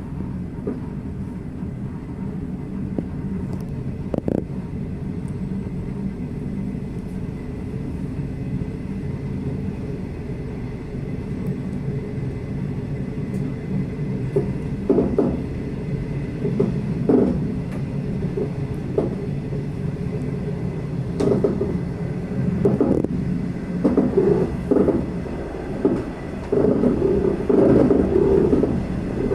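Passenger train running at speed on the rails, with a steady low rumble and irregular clatter and knocks from the wheels and carriage that come more often in the second half.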